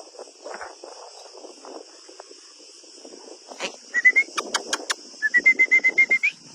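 A bird calls two fast runs of short repeated notes, the second longer and ending on a rising note, over a steady high insect drone. A few sharp clicks come just before and during the first run, with soft rustling in between.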